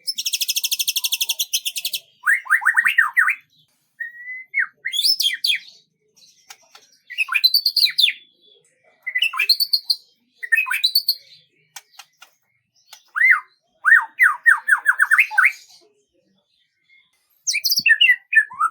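A songbird singing in short, varied phrases with brief pauses between them. It opens with a fast, high, buzzy trill lasting about two seconds, followed by quick runs of sweeping whistled notes.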